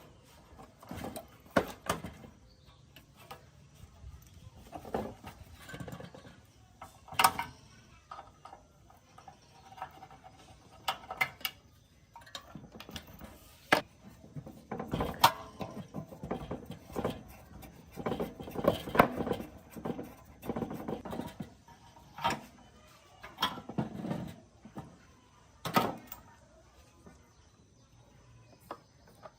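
Hand work on a gas water heater's parts: scattered sharp clicks and knocks of tools and parts being handled, with a busier stretch of scraping and rattling around the middle.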